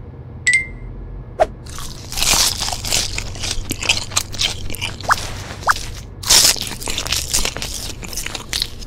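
Close-up crunching and chewing of crisp roasted seaweed sheets, an eating sound effect, as irregular crackling bites that start about two seconds in. A short high ding comes near the start.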